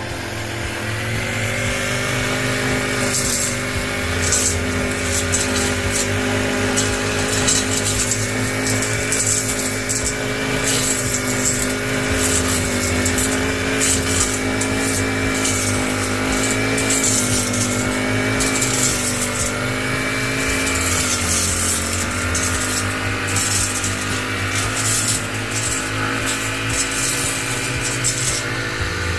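Small petrol engine of a garden trimmer running steadily at high speed. Its pitch wavers and dips briefly about three-quarters of the way through as it takes load.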